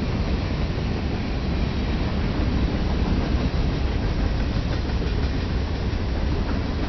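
Freight train running on the rails: a steady, loud rumble of wheels and cars.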